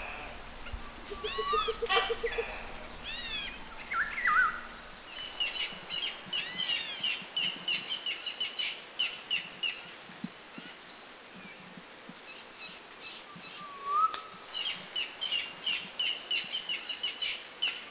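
Several birds singing and calling: arching whistled notes, then long runs of quick repeated chirps, with a short rising call about fourteen seconds in.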